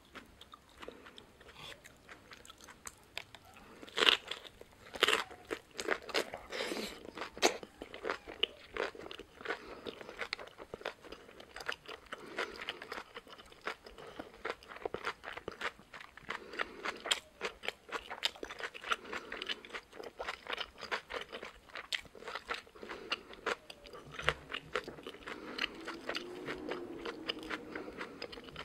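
Close-up chewing of a napa cabbage wrap filled with boiled pork and kimchi, with crisp crunches throughout. A few loud crunches come about four to seven seconds in, then steady softer crunching chews follow.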